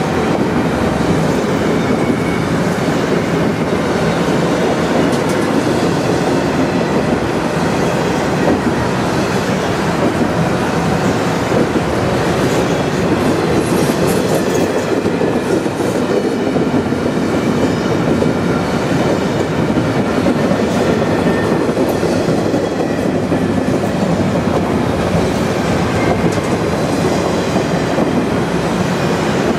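Double-stack intermodal well cars rolling past close by: a loud, steady rumble and rattle of steel wheels on rail that does not let up.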